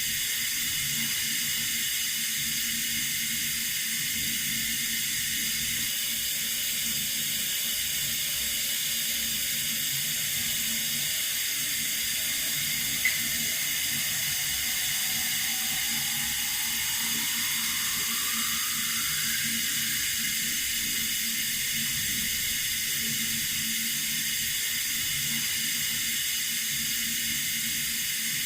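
Water running steadily from a tap, a constant hiss. A brief click comes about halfway through.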